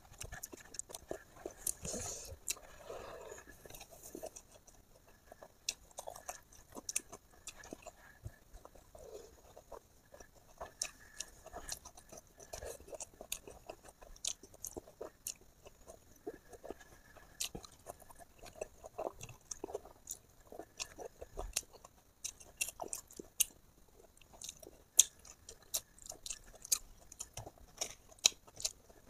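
A person chewing and eating pork close to the microphone, mukbang-style, with many irregular short, sharp mouth clicks and smacks throughout.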